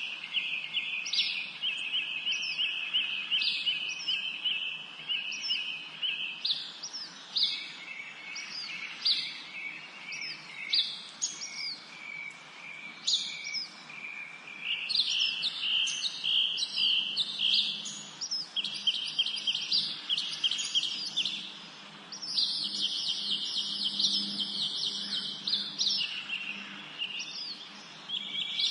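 Several songbirds singing at once in a spring forest chorus: fast buzzy trills overlap with many short, quickly falling whistled notes, over a faint background hiss.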